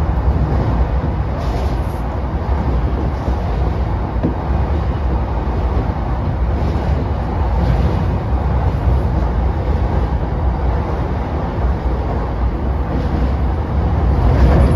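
Interior running noise of a JR East E233-5000 series electric train: a steady, loud low rumble of the car rolling along the track, with no announcement or voices over it.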